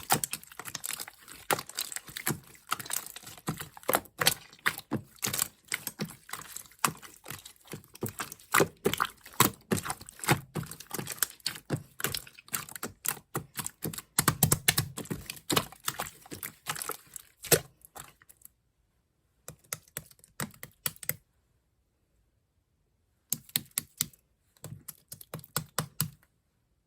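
Slime being pressed, poked and kneaded by hand, giving a dense, irregular run of small clicks and pops. The clicking stops for a few seconds twice in the last third.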